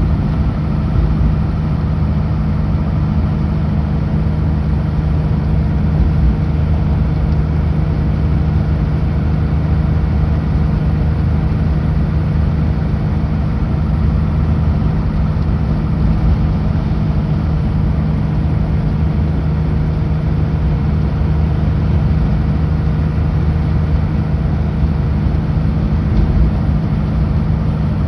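Kenworth W900L semi truck's diesel engine running steadily at highway speed, a constant low drone with road noise that does not change.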